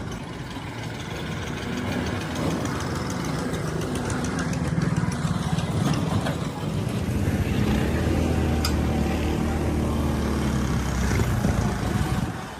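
A motor vehicle's engine running steadily with a low hum, getting louder a few seconds in.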